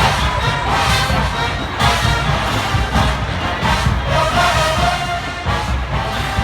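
A large marching band playing loud brass music over heavy drums, with sustained horn notes coming in about four seconds in.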